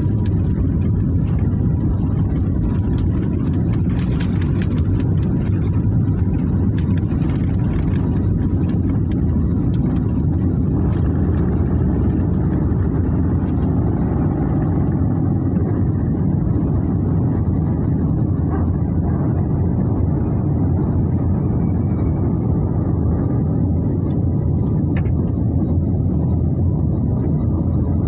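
Aircraft cabin noise heard from a window seat: a steady low rumble of engines and airflow. The higher hiss thins out about halfway through.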